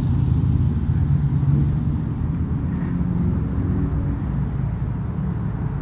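Steady low rumble of a motor vehicle engine running, like road traffic close by.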